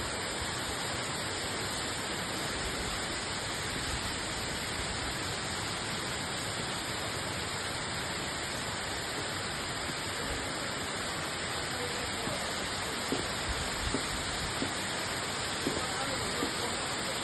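Heavy tropical rain falling steadily, an even hiss of rain on the surfaces around, with a few brief louder ticks in the last few seconds.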